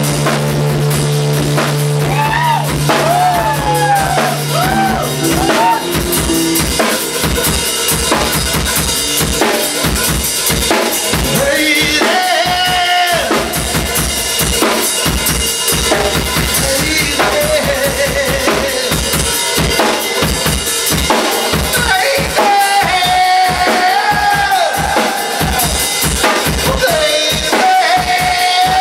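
Rock band playing live: a drum kit beats out a steady, driving rhythm of bass drum and snare under a lead guitar line of bent, wavering notes. Low notes are held for the first few seconds before the drums take over.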